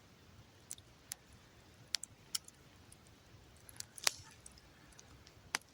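A wood campfire crackling: about half a dozen scattered sharp pops over a faint steady hush, the loudest about four seconds in.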